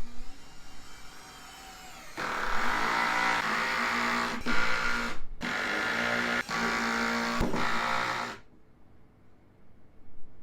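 A handheld power tool's electric motor runs steadily for about six seconds, starting about two seconds in, with a brief cut-out partway through, then stops.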